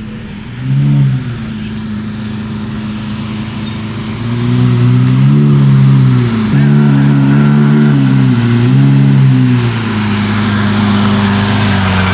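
Car engine revved through its exhaust: a short blip about a second in, then several hard revs rising and falling in pitch, settling back to a steady idle near the end.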